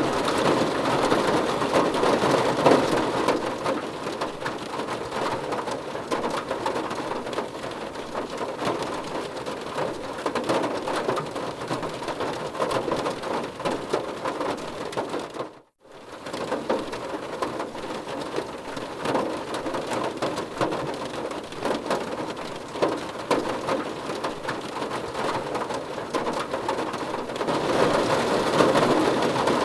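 Steady rain, a dense patter of many drops, louder in the first few seconds and again near the end. About halfway through the sound cuts out for a split second, then carries on.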